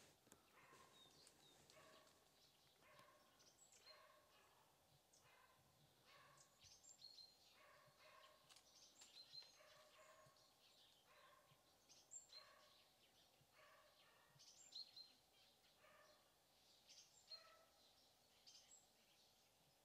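Faint birds chirping, with short calls repeating about once a second.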